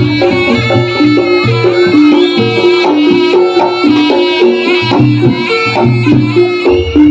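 Live Javanese jaranan music: a gamelan-style ensemble with hand drums beating a quick rhythm, metallophones and gongs repeating short figures, and a high, reedy wind melody, the slompret, running over the top.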